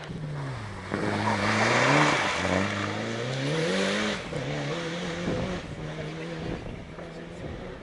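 Rally car engine accelerating hard through the gears, its pitch climbing, dropping at a shift about two and a half seconds in and climbing again, then levelling off and fading as the car drives away, with a couple of short pops.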